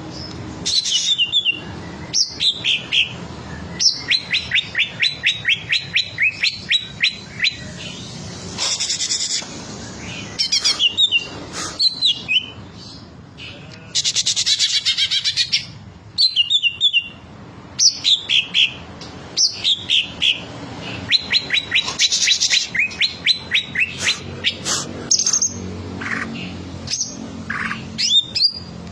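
Green leafbird (cucak ijo) singing a long, varied song of rapid repeated chirps, fast trills and whistled upward and downward glides, with a longer buzzy phrase about halfway through. It is running through its full repertoire of song phrases.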